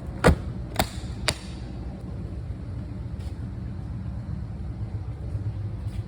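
Three sharp knocks about half a second apart, over a steady low rumble.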